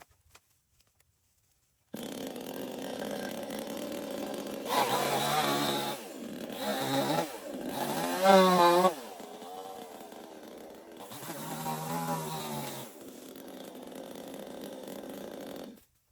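Chainsaw running, its engine speed rising and falling several times as it is throttled up and back, loudest about halfway through. It starts suddenly about two seconds in and stops abruptly just before the end.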